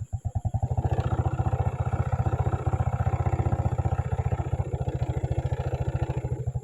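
Small motorcycle engine running at low, steady speed, its exhaust pulsing evenly; the engine note fills out about a second in, as if under a little more throttle.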